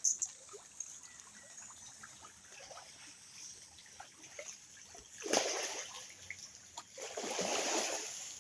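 Water splashing in a fish pond as feed is thrown in and the fish take it at the surface. There is a sharp splash right at the start, a bigger one about five seconds in, and a longer stretch of splashing near the end.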